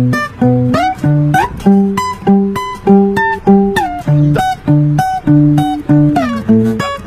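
Fingerstyle acoustic guitar playing a melody over bass notes, plucked about twice a second, with a few notes slid up or down in pitch.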